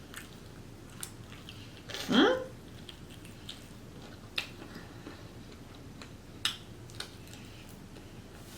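Close-up mouth sounds of a person eating boiled shrimp: scattered sharp clicks and smacks of chewing, with one short, loud vocal sound about two seconds in.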